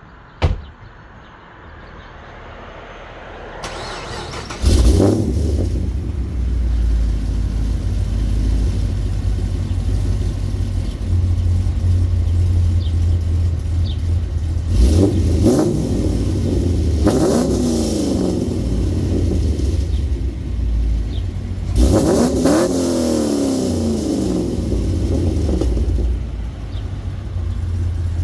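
A thump, then a Chevrolet Camaro SS V8 with a full exhaust starts about five seconds in and settles into a loud, low idle. It is revved briefly three times in the second half, the pitch falling back to idle after each.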